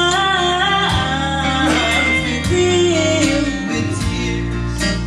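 Gospel vocal group singing a held, sliding note over country-style guitar accompaniment.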